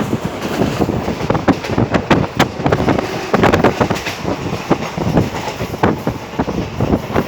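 A train running along the track, heard from on board: a steady rumble with irregular clattering knocks from the wheels on the rails.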